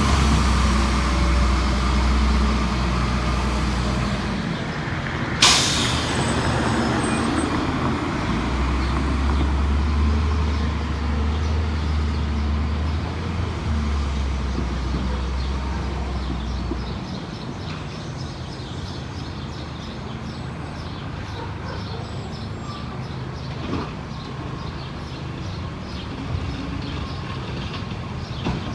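Diesel engine of a Crane Carrier LET1 garbage truck running, its low drone strong at first and fading over the second half. A short sharp hiss of air, like an air brake, about five seconds in.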